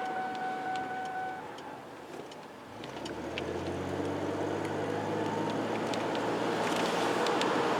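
A car engine starts about three seconds in and runs steadily, growing a little louder. Before it, a steady electronic tone stops after about a second and a half.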